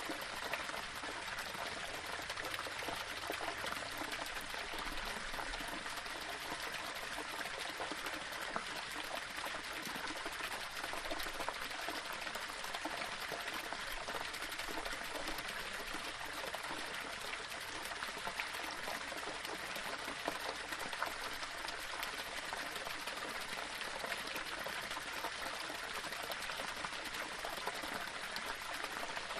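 Small waterfall splashing and flowing over rocks, a steady unbroken rush of water.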